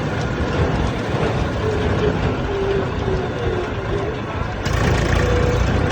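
Tractor engine running steadily with a low, pulsing rumble that gets louder a little under five seconds in.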